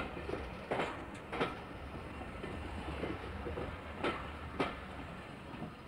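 British Rail passenger train running past: a steady low rumble with two pairs of sharp wheel clacks over the rail joints.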